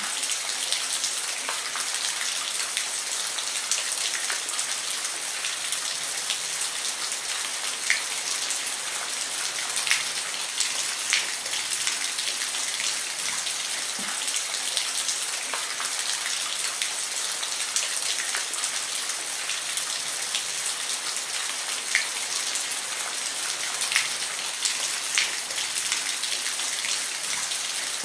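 Steady rain falling on a roof: an even hiss with individual louder drops ticking now and then.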